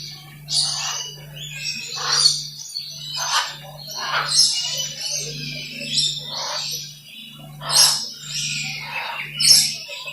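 Many birds calling and chirping at once, with loud harsh calls breaking out about every one to one and a half seconds over continuous chatter. A steady low hum runs underneath.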